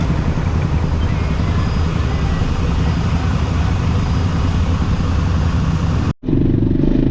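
Vehicle engine running steadily, with a continuous low rumble; the sound cuts out abruptly for an instant about six seconds in, and a different sound follows.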